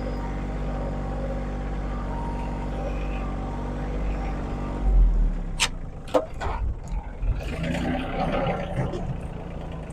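A heavy machine's engine running steadily. About five seconds in its note drops and a few sharp clanks and knocks follow, then a stretch of rattling and clattering.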